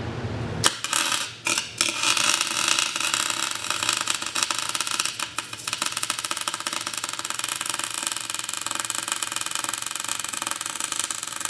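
Welder arc crackling while the differential's planet gears are welded together to lock the diff: a few short starts about a second in, then one long steady bead.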